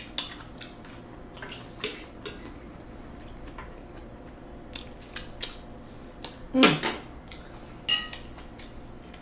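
Metal fork tapping and scraping against a bowl in scattered short clicks while noodles are eaten, with a louder eating noise about six and a half seconds in.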